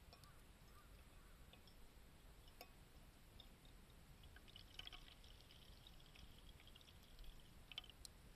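Faint pour of liquid lasting about three seconds, starting about halfway in, with a few sharp clicks before and after it.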